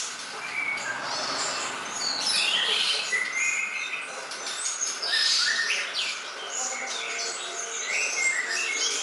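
Songbirds chirping and whistling continuously, in quick overlapping phrases of short high notes and pitch glides.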